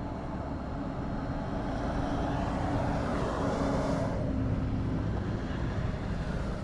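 Roadside motor-vehicle noise: a steady low rumble, with a vehicle going past whose noise swells from about two seconds in and cuts off sharply just after four seconds.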